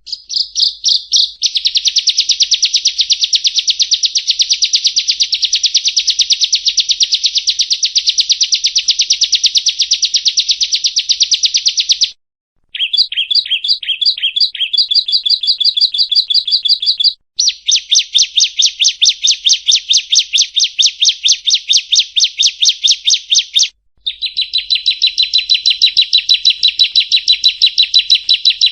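Bar-winged prinia (ciblek kristal) singing long, rapid trills of high repeated notes, about eight a second. The trills are broken by brief pauses, and a choppier varied phrase comes in the middle.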